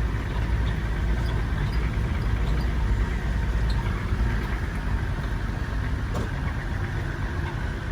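Steady low rumble of a car's engine and tyres, heard from inside the cabin while it drives along the track.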